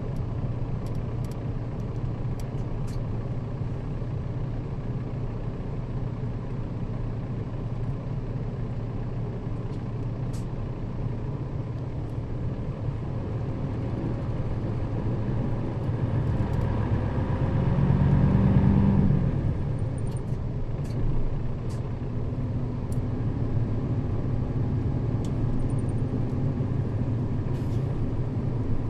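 Nissan Diesel KL-RA552RBN bus running on the road, heard from inside the cabin: a steady low diesel drone with road noise. About halfway through, the engine works harder and rises in pitch, then eases off suddenly about nineteen seconds in and settles back to a steady run.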